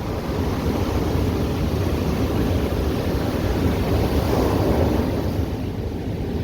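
Ocean surf washing onto a beach, a steady rushing with a wave swelling louder about four seconds in, with wind rumbling on the microphone.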